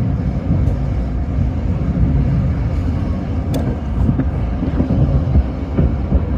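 Tōyō Rapid Railway commuter train running between stations, heard from inside the car: a steady low rumble of wheels and motors, with a single sharp click about three and a half seconds in.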